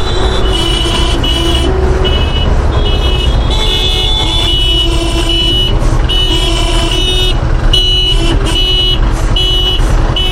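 Vehicle horns honking again and again in a traffic jam, several horns of different pitches in short, overlapping toots, over a steady low rumble of engines.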